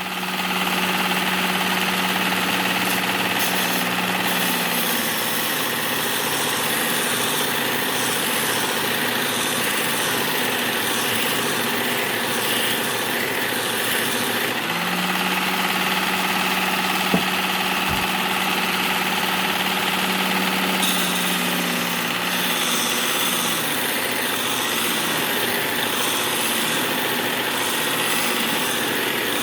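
Work Sharp Ken Onion electric belt sharpener running while the steel tip of a pickaxe is ground on its abrasive belt to bring it to more of a point: a steady motor hum under a continuous grinding rasp, with one sharp knock about 17 seconds in.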